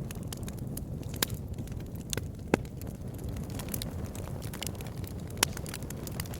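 Campfire burning: a steady low rumble of the flames with sparse crackles and sharp pops from the burning wood, three of them louder, about a second in, midway and near the end.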